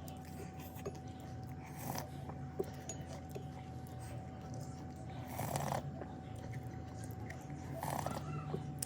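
Close-miked eating sounds: a few short wet bursts of chewing and slurping, about 2, 5 and 8 seconds in, over a steady low hum.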